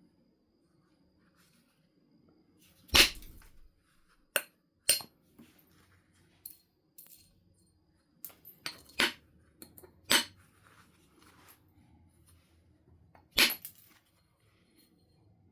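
Stone being knapped: about ten sharp, irregular clicks of a tool striking the edge of a flint or stone biface, the loudest about three seconds in and again near the end.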